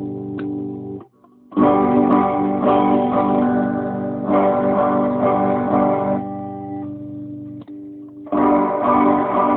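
Fender Jazzmaster electric guitar strumming chords and letting them ring. The strings are muted about a second in, with a new chord struck half a second later, another around four seconds in, and a fresh strum after a brief stop near eight seconds.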